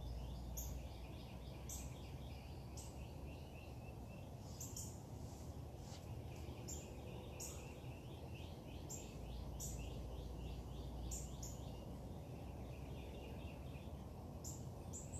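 Birds chirping and singing in a morning chorus: short, sharp high chirps repeat every second or so over rows of quick trilled notes, against a steady low rumble of background noise.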